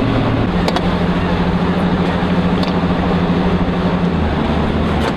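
Motor boat engine running under way, over a steady rushing noise. Its note steps up about half a second in and drops back a little after four seconds.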